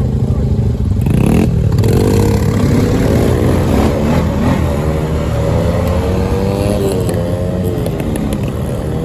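Dirt bike engine revving hard and accelerating: its pitch shoots up about a second in, then climbs and drops back several times.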